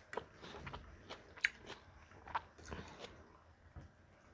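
A person chewing food close to the microphone, with scattered crisp crunches and wet mouth clicks.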